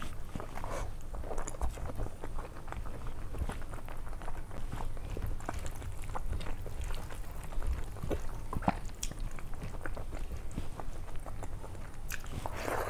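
Close-miked eating by hand: chewing mouthfuls of rice and dal, with the wet squish of fingers mixing rice into dal on a steel plate, heard as many small clicks.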